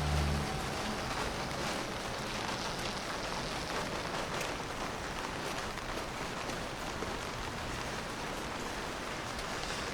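Steady rain falling on a city street, an even hiss with scattered light drop ticks. A vehicle engine hum fades out about half a second in.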